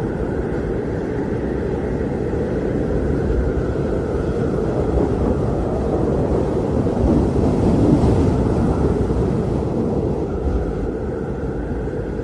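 Blizzard wind: a steady, low rushing that swells into a stronger gust about eight seconds in, then eases off.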